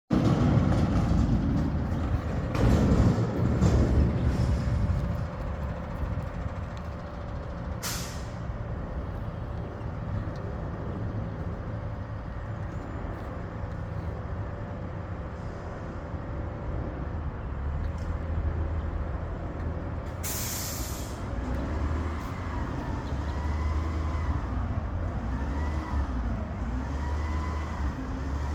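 Garbage truck's diesel engine running with a steady low rumble, with two short air-brake hisses, about eight seconds in and again about twenty seconds in, and a wavering whine near the end.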